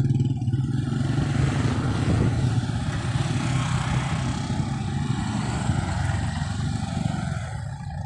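A motor vehicle's engine passing close by, its steady hum with road noise gradually fading away over several seconds.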